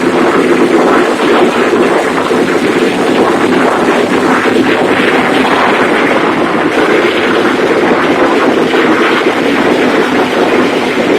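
A large diesel engine, converted to spark ignition and running on wood gas, driving a 100 kW generator at a steady speed: a loud, even running noise that shows the engine working stably on the gas.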